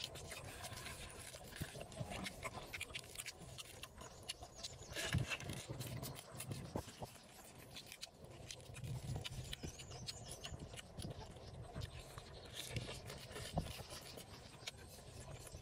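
Close-up eating sounds: a man chewing fried pork belly and fresh greens, with irregular small crunches and wet clicks of the mouth.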